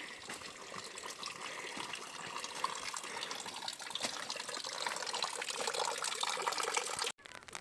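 Running, splashing water, a dense spatter of small droplet sounds that grows slightly louder and cuts off suddenly about 7 seconds in.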